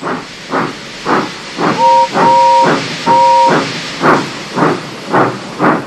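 Steam locomotive puffing away, with rapid regular chuffs about three a second. Its whistle sounds three short blasts in the middle.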